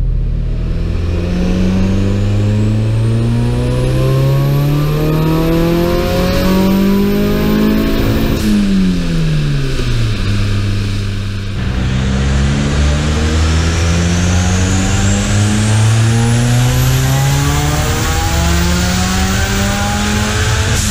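Volkswagen hatchback's turbocharged engine making two full-throttle pulls on a chassis dynamometer. In each pull the revs climb steadily for about eight seconds; after the first, the revs drop away quickly and the engine settles before the second pull begins. A thin high whine rises with the revs in each pull.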